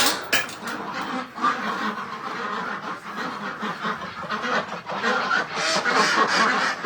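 Domestic ducks quacking and chattering in a busy run of short calls, with a couple of sharp knocks at the very start.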